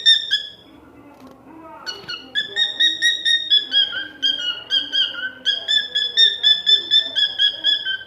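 Male cockatiel singing: a quick run of short whistled notes, then after a brief pause a long string of rapid repeated whistles, several a second, stepping slightly down in pitch.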